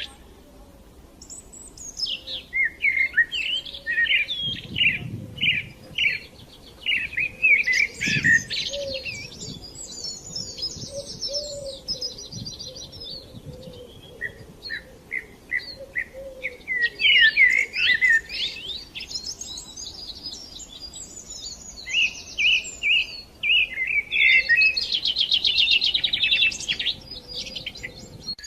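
Songbirds singing: a busy run of short chirps and fast trills from more than one bird, with brief lulls.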